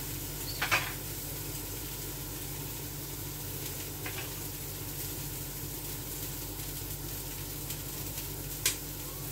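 Beef hamburger patties sizzling as they fry in a pan, a steady hiss, with two sharp clicks: one just under a second in and one near the end.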